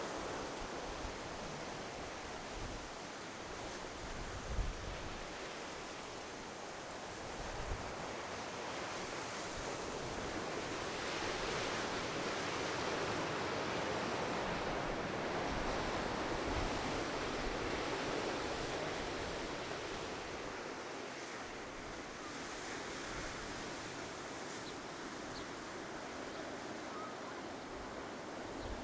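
Ocean surf washing onto the shore as a steady wash that swells for several seconds in the middle, with a couple of brief low bumps.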